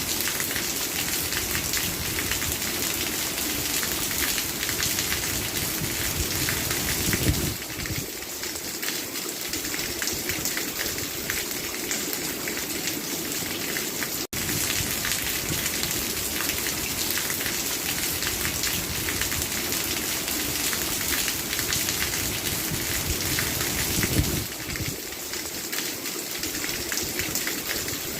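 Steady rain falling, a dense, even patter of drops. It swells briefly twice and cuts out for a split second about halfway through.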